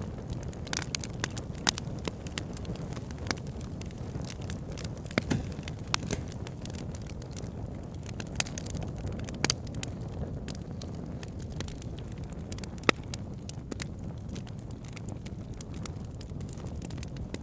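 Wood fire burning in a fireplace: a low steady rumble of the flames with irregular sharp crackles and pops, one louder pop near the end.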